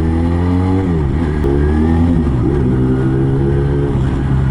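Motorcycle engine under way, pulling up through the gears: its pitch climbs, drops sharply at a shift about a second in, climbs again with another drop a little past two seconds, then holds steady.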